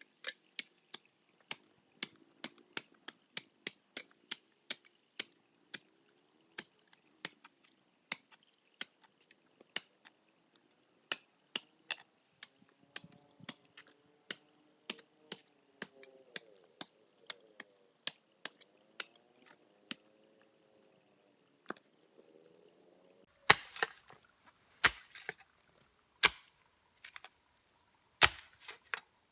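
Rapid, sharp strikes of a tool on wood, about two to three a second, in a long steady run; near the end the blows come heavier and louder, with a short ring after each.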